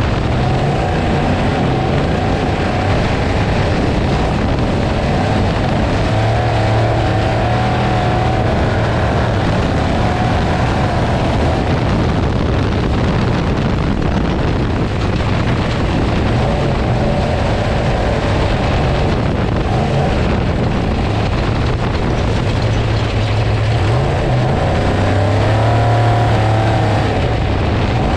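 Trophy truck engine running hard under load, its pitch wavering, buried in heavy wind and road noise. It gets slightly louder about 26 seconds in.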